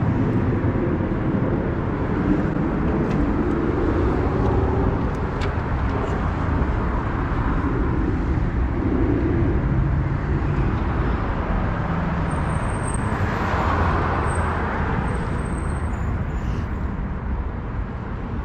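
Honda Rebel 300's single-cylinder engine running steadily under road noise while riding.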